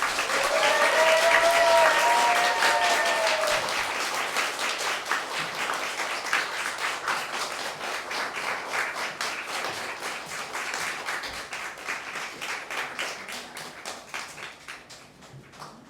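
Audience applauding at the close of a concert, the clapping slowly dying away toward the end. Over it, one voice holds a long call for about three seconds near the start.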